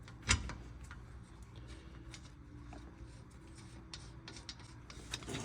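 A single sharp metal knock, then scattered light clicks and taps of hand tools working on the brake caliper bolts.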